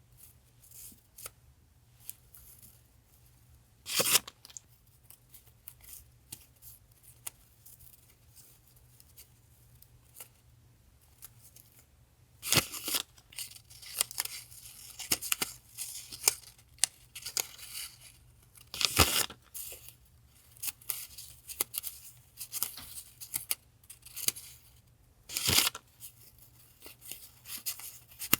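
Paper die-cuts and their plastic sleeves being handled and unpacked: intermittent rustling, crinkling and light taps, with four louder crackling rustles spread through.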